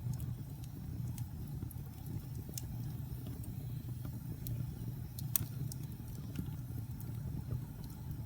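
Log fire burning in a fireplace: a steady low rumble of flames with sharp crackles and pops at irregular moments, the loudest pop about five seconds in.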